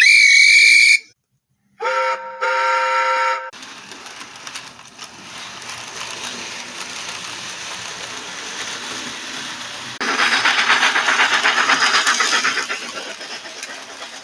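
Steam train whistles for Gordon's departure: a short high whistle, then a deeper chord whistle in two blasts. Then the train runs on with a steady rushing, rhythmic chuffing noise that grows louder for a couple of seconds near the end.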